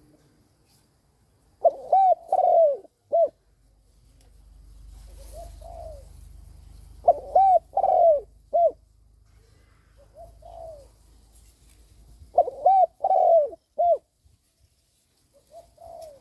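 Spotted dove cooing: three loud phrases of about four notes each, the last note short and set apart, about five seconds apart, with softer coos in between.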